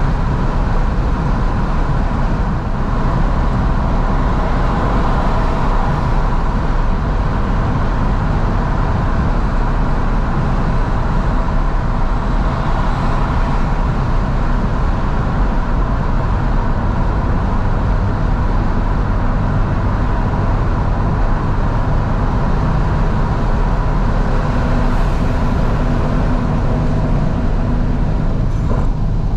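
A 2012 Fiat 500S driving along, heard from inside the cabin with the windows wide open: a steady mix of engine hum, tyre and road noise, and air rushing in through the windows.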